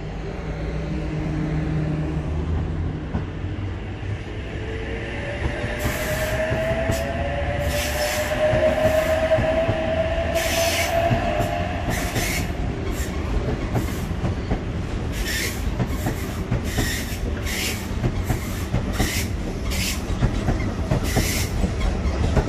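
Electric passenger train passing close by: a low rumble with a whine that rises in pitch through the middle, and a run of sharp clacks and squeals from the wheels over the rails and points.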